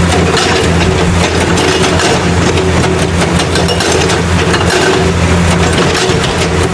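Stone-crusher machine running steadily: a low engine drone under a dense, fast rattle.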